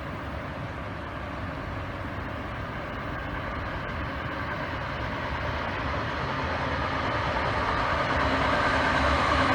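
A vehicle approaching and growing steadily louder: a low running rumble that picks up several steady whining tones in the last few seconds.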